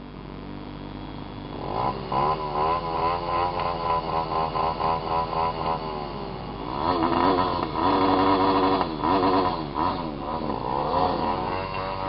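Small dirt bike engine being revved over and over, its pitch rising and falling with quick throttle blips. A second, louder run of revving starts about halfway through.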